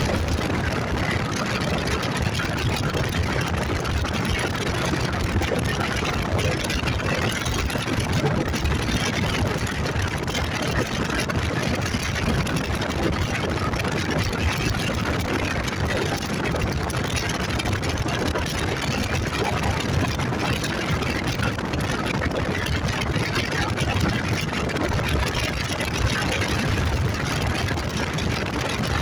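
Motorcycle on the move: a steady mix of engine noise and rushing air, holding an even pace with no shifts or sudden sounds.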